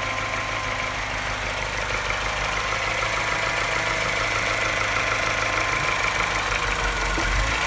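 Engine idling with a tapping knock and slightly uneven running. The uploader says the tapping gets louder and a slight misfire sets in once the revs drop, giving it a clatter like a London taxi.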